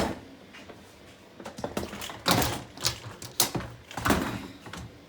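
Irregular clunks, clicks and rattles of hard parts being handled, with a short scrape a little after two seconds and a louder knock about four seconds in.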